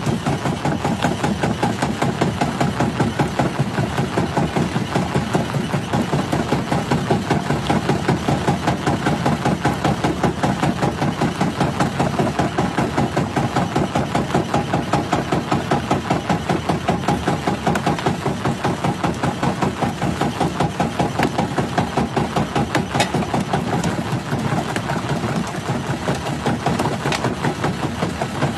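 Jaw rock crusher running with a steady, even pulsing of about four to five beats a second.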